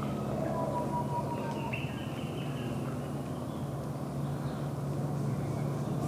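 Birds calling in tropical forest: a clear whistled note about a second long, then a thinner, higher note. A steady low drone runs underneath throughout.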